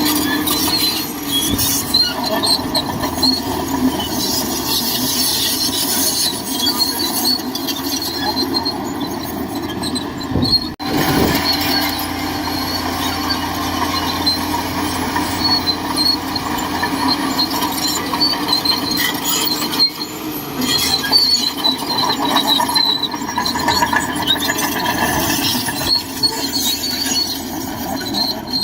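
Shantui DH17C2 crawler bulldozer working, its engine running steadily with many short high-pitched squeals from the steel tracks. The noise dips briefly about eleven seconds in.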